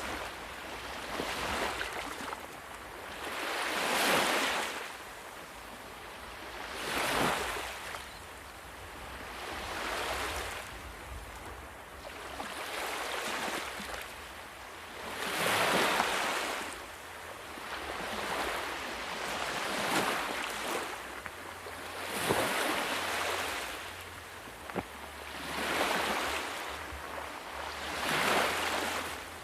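Ocean waves breaking on a shore, the surf swelling and falling back every three seconds or so in a steady, repeating wash.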